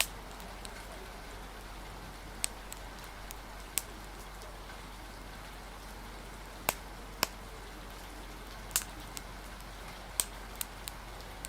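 Steady rain hiss with about a dozen sharp pops and crackles of a wood fire, scattered at irregular intervals.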